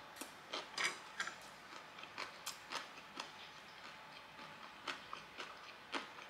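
Close-miked chewing with the mouth closed: faint, irregular wet clicks and crunches, coming thickly for the first few seconds and then thinning out.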